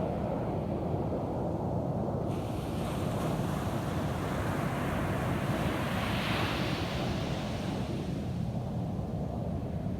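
Ocean surf washing onto a beach: a wave rises about two seconds in, breaks and hisses loudest around six seconds, then fades, over a steady low rumble of surf, with some wind on the microphone.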